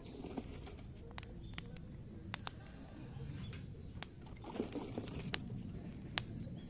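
Branch-wood fire of zelkova and willow burning in a fire pit: a steady low rush with irregular sharp crackles and pops, and a brief flurry of crackling just after the middle.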